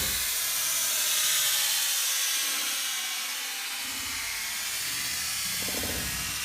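Rocket motor exhaust hissing after liftoff, a steady airy rush that slowly fades.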